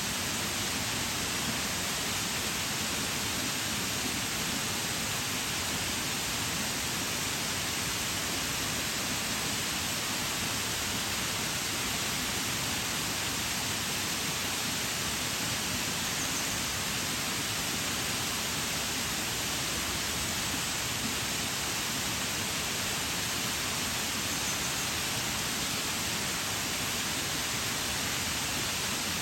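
Waterfall: a steady, unbroken rush of falling water, more hiss than rumble.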